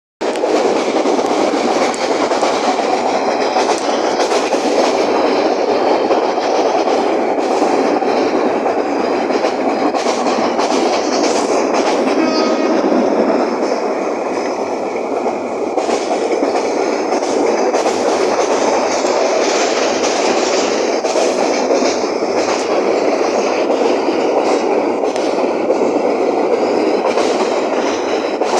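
A moving train running steadily along the track, its wheels rumbling and clattering on the rails.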